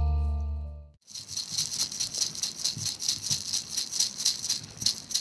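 Sustained music tones over a deep drone fade out within the first second. Then a handheld ritual rattle is shaken in a quick, steady rhythm.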